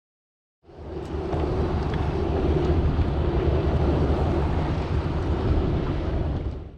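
Wind buffeting the microphone on open water: a steady low rumble with hiss. It starts after a short silent gap and stops abruptly at the end.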